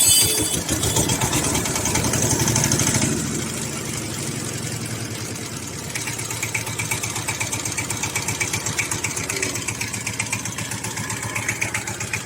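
SIFANG power tiller's single-cylinder diesel engine running with a rhythmic clatter. It runs faster and louder for the first three seconds or so, then drops to a lower, steady idle.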